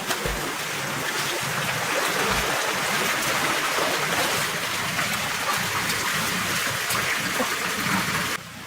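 Steady rushing water noise, cutting off suddenly near the end.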